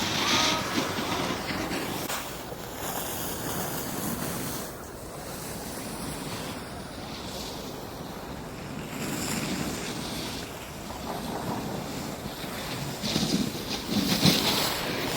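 Wind rushing over the microphone and a steady hiss of snow sliding under a rider on a ski slope, swelling louder near the end.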